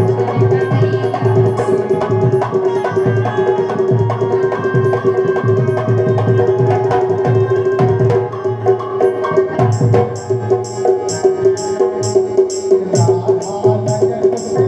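Instrumental Indian folk music for a rai song, with no singing. A steady held melody note sounds over a repeating hand-drum beat. About ten seconds in, a crisp high percussive accent joins, about three strokes a second.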